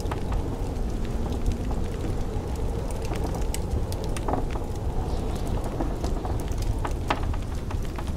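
Wood fire crackling with scattered sharp pops over a steady low rush of blizzard wind.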